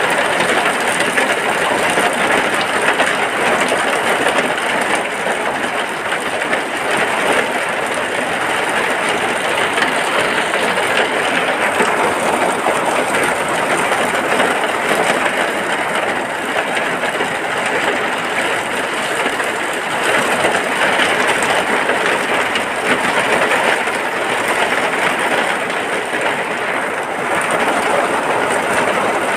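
Steady rain falling in a dense, even hiss with no breaks.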